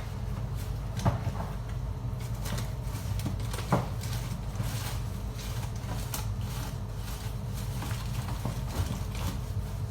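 Kitchen handling sounds: scattered light clicks and knocks, one sharper about a second in and another near four seconds, over a steady low hum.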